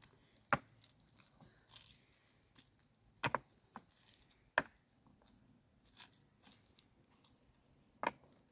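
Four sharp knocks, spaced one to three and a half seconds apart, over faint handling noise.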